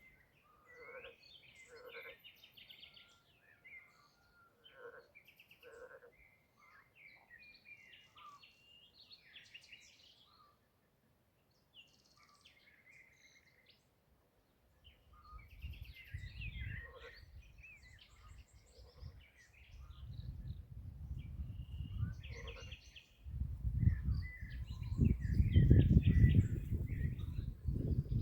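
Songbirds chirping and calling in short phrases, with a lull of a few seconds midway. From about halfway a low, uneven rumble comes in and grows, loudest near the end.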